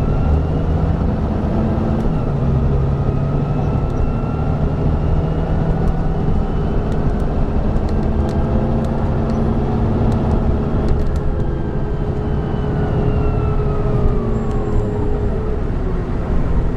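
Volvo B9TL bus's B9B diesel engine and ZF Ecomat automatic gearbox running under way, a steady low drone with a whining tone that slowly rises in pitch, holds, then falls away over the last few seconds. A few light rattles and clicks come through in the middle.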